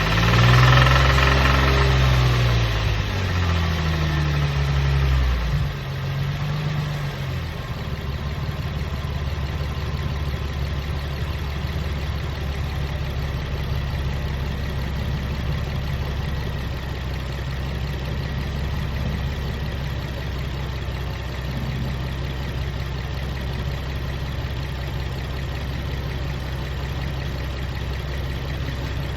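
Infiniti G35's 3.5-litre V6 engine blipped in the first several seconds, its pitch rising and falling, then settling to a steady idle. It carries a rattling knock whose cause the owner doesn't know; the rattle grows more intense when the engine is revved.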